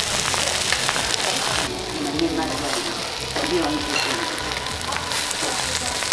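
Okonomiyaki sizzling on a hot teppan griddle, with a small metal spatula clicking and scraping against the plate as it cuts the pancake.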